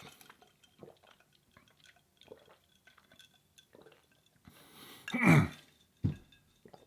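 Close-miked wet mouth and eating sounds: soft clicks and smacks while chewing, with one louder wet sound falling in pitch about five seconds in.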